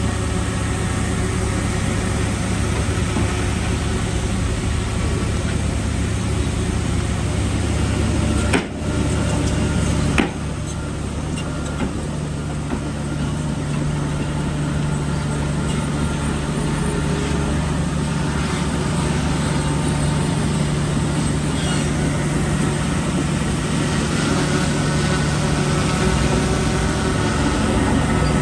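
Heavy diesel engine of earthmoving machinery running steadily. There is a brief drop and a sharp click about nine to ten seconds in, after which the engine note changes to a different steady pitch.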